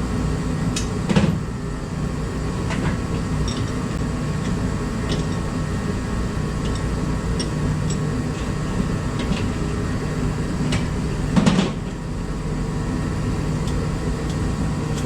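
Parts and tools being handled during tie rod work: scattered light clicks, with two louder knocks about a second in and again near the end, over a steady background hum.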